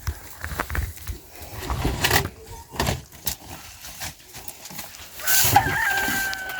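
Scattered short knocks and rustles, then about five seconds in one long held call from a farm animal, lasting over a second.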